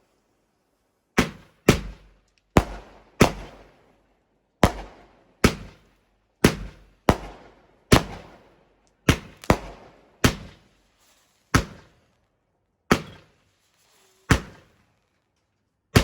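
Fireworks going off: about fifteen sharp bangs at uneven intervals, each with a short fading echo.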